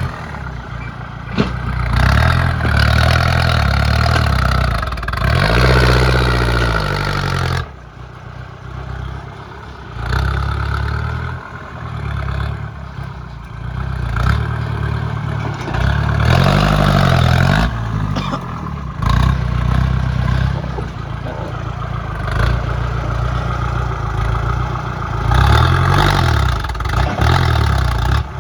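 Tractor engine working under load, its revs rising and falling several times, with clatter from the machinery; the sound changes abruptly near 8 seconds in.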